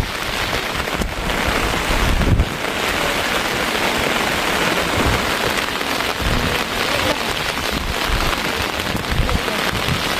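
Heavy rain falling steadily, a dense even hiss, with a brief low rumble about two seconds in.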